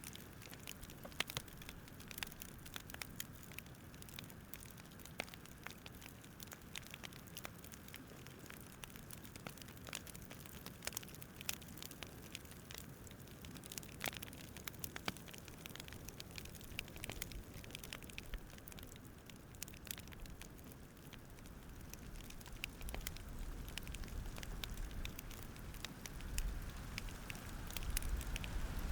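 Campfire crackling: irregular sharp pops and snaps over a soft steady hiss. A low rumble swells in the last few seconds.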